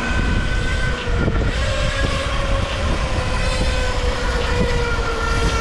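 Wind rushing over the microphone while riding an e-bike, with a steady whine that slowly drops in pitch.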